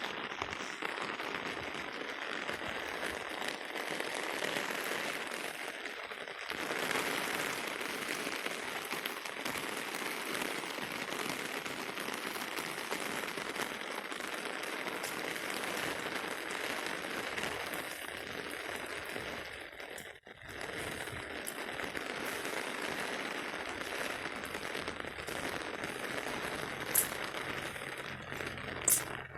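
Steady rain falling, an even hiss that drops away for a moment about two-thirds through, with two sharp clicks near the end.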